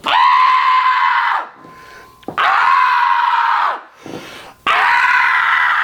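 A person screaming three times. Each scream is a long, high, held cry of about a second and a half that drops in pitch as it ends.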